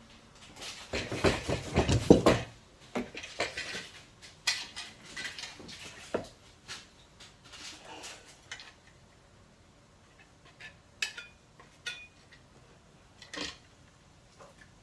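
Clattering and clinking of small hard objects being handled, a dense burst of knocks in the first couple of seconds, then scattered single clicks and taps.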